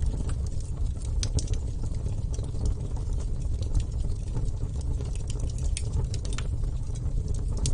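Wood bonfire burning: a steady low rumble of flame with irregular sharp crackles and pops, roughly one or two a second.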